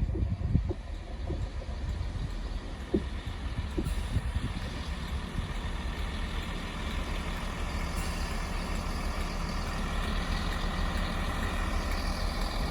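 Class 165/166 Turbo diesel multiple unit's underfloor diesel engines idling steadily while the train stands, with a few light knocks in the first three seconds.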